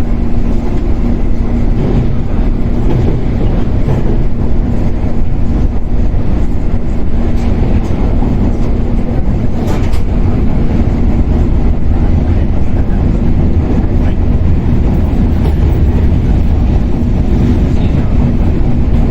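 Onboard running sound of a Shinano Railway 115-series electric train in motor car KuMoHa 115-1013: a steady rumble of DC traction motors and wheels on rail, with a constant hum. One sharp click comes about ten seconds in.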